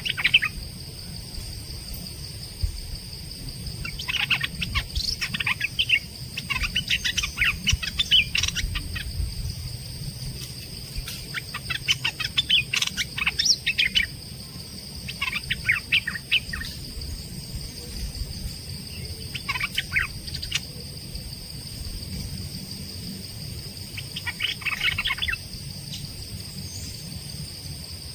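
Small songbird, the species Thai keepers call nok dok taeng, singing in about six separate bursts of quick, rapid chirps a few seconds apart, over a steady high-pitched hum.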